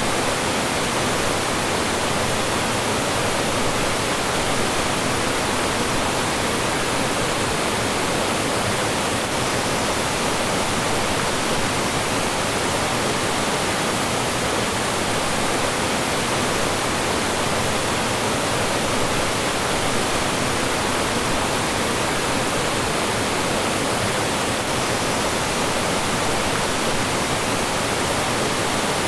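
Mountain stream rushing and falling over rocks, a steady full-range wash of water noise with no change or pause.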